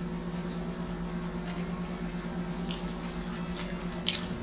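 Closed-mouth chewing of a mouthful of pizza: soft, scattered wet mouth clicks and smacks, with one sharper click near the end, over a steady low hum.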